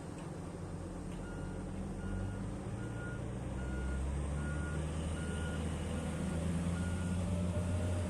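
Reversing alarm on heavy mining equipment beeping at a single pitch about once every 0.8 seconds, over the low running of a large diesel engine that grows louder about halfway through.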